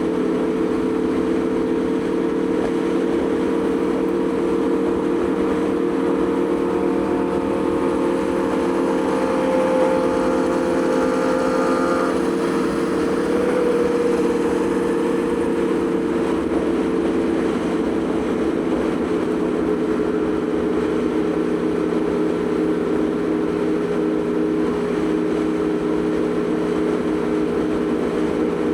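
Aprilia Tuono V4 motorcycle's V4 engine running at a steady cruising speed, a constant drone that holds one pitch throughout.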